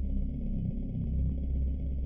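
Synthesized ambient drone, low and deep, pulsing as it swells and fades.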